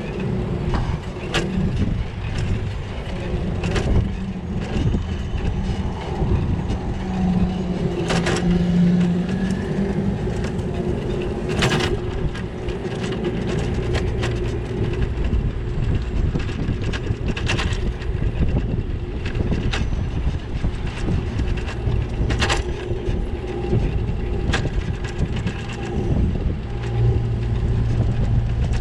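Continuous low rumble and rattle of a bicycle ride on city streets, with a handful of sharp knocks as the bike hits bumps. Traffic adds a steady hum for a few seconds in the middle and again near the end.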